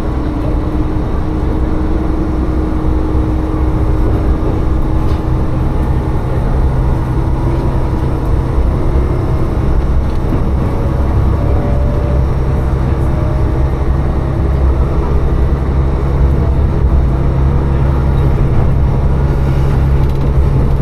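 Tsugaru Railway diesel railcar's engine running with a steady low hum, heard from inside the passenger car along with a constant rumble.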